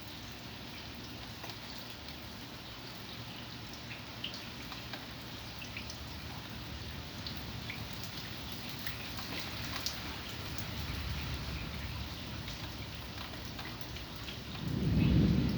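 Steady rain with scattered drops ticking. Near the end a low rumble of thunder swells up and is the loudest sound.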